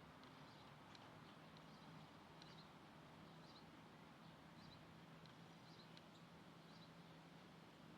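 Faint birds chirping: short, high chirps about once a second over a low steady hum.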